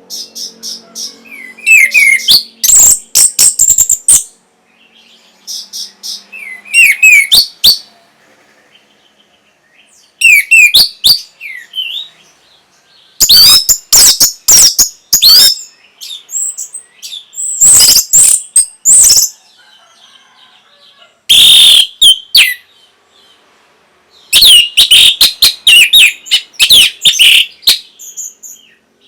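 Orange-headed thrush singing loud, varied phrases of rapid high whistles and chattering notes, in bursts of one to three seconds with short pauses between.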